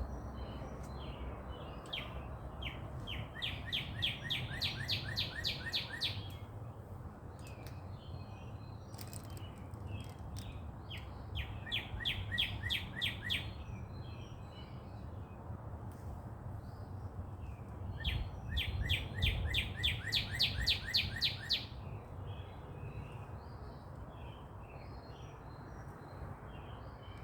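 Songbirds chirping at sunrise: one bird sings a loud, rapid trill of repeated chirps three times, lasting two to three seconds each, with softer scattered chirps from other birds in between, over a steady low rumble.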